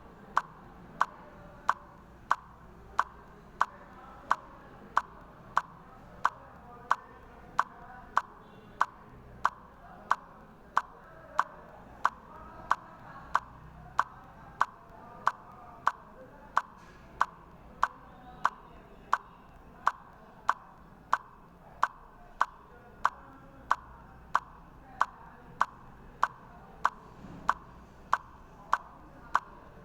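Steady, evenly spaced ticking, about two sharp ticks a second.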